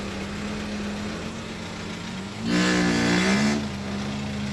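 Dump truck's diesel engine running steadily while driving, heard from the cab. Partway through there is a louder burst lasting about a second.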